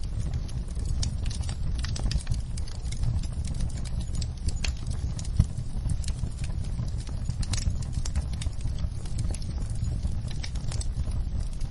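Wood fire crackling in a fireplace: irregular snaps and pops of burning logs over a low steady rumble of flames, with one louder pop about five seconds in.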